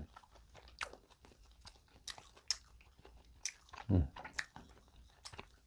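Close-up chewing of a soft, seasoned deep-fried croquette bread: moist mouth clicks and small smacks scattered throughout, with a brief hummed voice about four seconds in.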